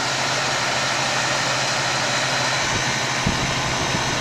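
Walk-in freezer's refrigeration unit running steadily as it pumps down, fan noise over a low hum, with a couple of soft low thumps about three seconds in.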